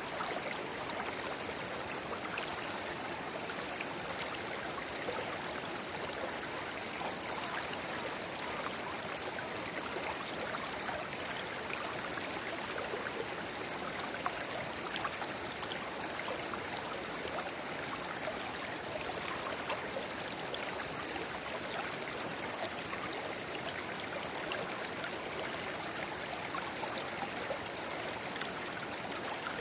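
Shallow river water babbling steadily over stones, where a small spring-fed rivulet runs into the main stream: a continuous splashing rush with fine trickles and droplets, without pause or change.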